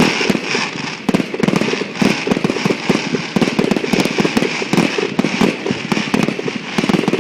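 Aerial fireworks display going off in a rapid, continuous barrage of bangs and crackles with no pause.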